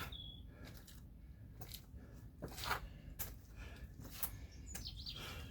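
Faint hard breathing of a man recovering after burpees and kettlebell jump squats: a handful of short, breathy puffs, roughly one a second.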